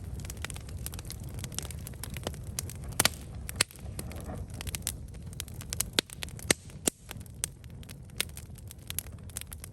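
Wood campfire burning, with irregular crackles and sharp pops over a low steady rumble of flames.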